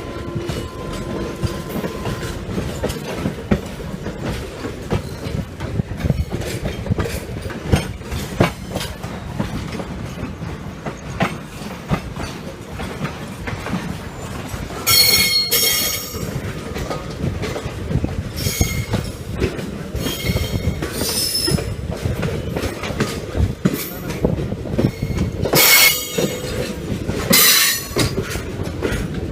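Passenger train coach running along the track, heard from on board: a continuous rumble with rail clatter. In the second half come several short, high-pitched wheel squeals.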